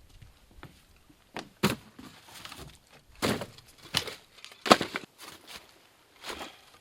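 A series of irregular knocks and thuds, about six in all, the loudest a little under five seconds in.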